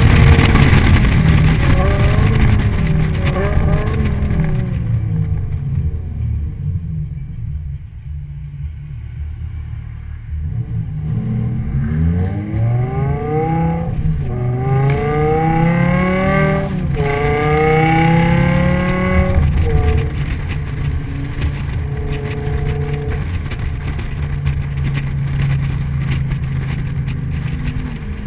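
Car engine heard from the onboard camera: loud at first, it dies away to a low murmur as the car coasts, then revs up in three rising pulls with a gear change between each, and settles into a steady cruise.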